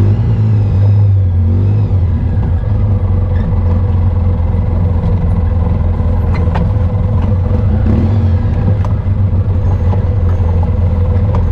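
Off-road vehicle engine running steadily under way on a dirt trail, with a couple of sharp knocks partway through.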